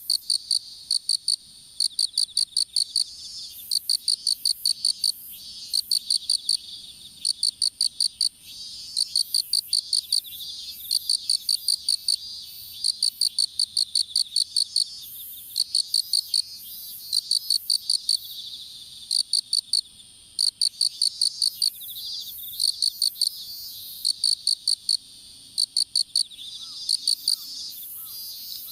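Insects chirping in a field: one loud caller repeats short, rapid trains of high pulses every second or two over a steady background chorus of other insects.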